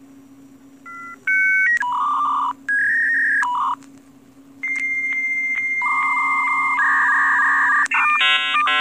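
Dial-up modem connecting. Short paired dialing tones come first, then switching handshake tones and a long steady high tone with regular clicks, ending in rapid chirping tone patterns.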